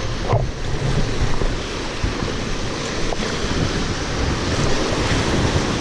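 River water rushing around a raft, with wind buffeting the microphone as a steady noise and uneven low rumbles.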